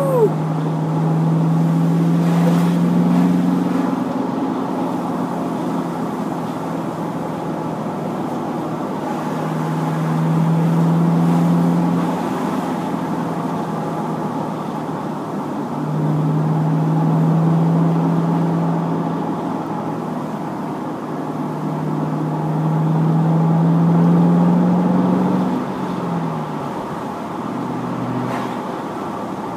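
Chevrolet Camaro engine heard from inside the cabin, pulling in four long swells that rise slowly in pitch and ease off between them, over steady road noise. A short falling squeal sounds at the very start.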